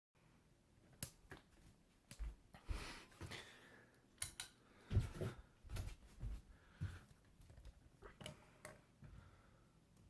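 A dozen or so irregular clicks, clatters and dull knocks, unevenly spaced, over a faint steady background.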